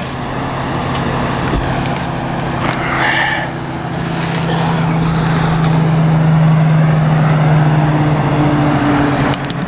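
A motor vehicle's engine running close by, its steady hum growing louder through the middle and holding until near the end, over continuous street noise.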